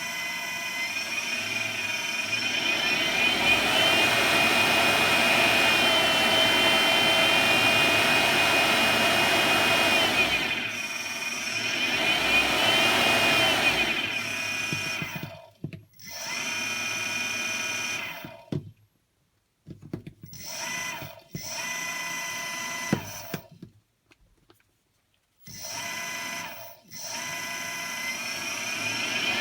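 Car alternator converted into an electric motor, spinning on a speed controller with a high motor whine that rises and falls in pitch as its speed is changed. In the second half it cuts out and starts up again several times.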